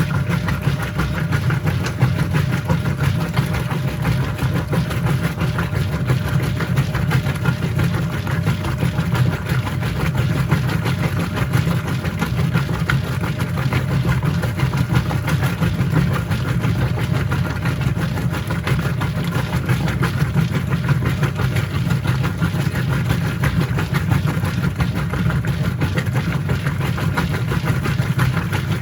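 Whirlpool top-load washing machine running mid-cycle: a steady low motor hum with an even wash of water and drum noise over it.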